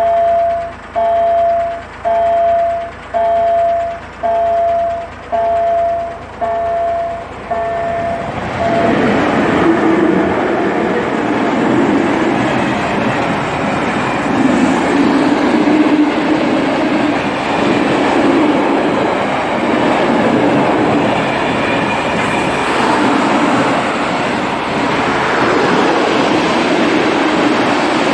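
Level crossing warning signal sounding a pitched electronic tone about once a second, stopping about eight seconds in. A train then passes over the crossing with a steady rolling rush of wheels on rail for the rest of the time.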